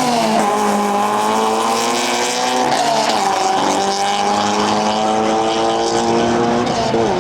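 A performance car engine held at high revs, with brief drops in pitch and recoveries near the start, about three seconds in, and near the end.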